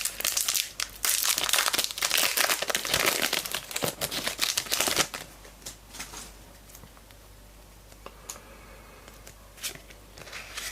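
Foil trading-card pack wrapper being torn open and crinkled for about five seconds, then a quieter stretch with a few light clicks and rustles as the cards are handled.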